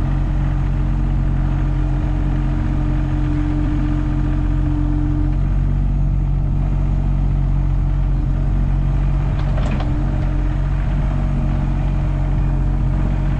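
Engine of a farm machine running steadily while it pushes fence posts into the ground.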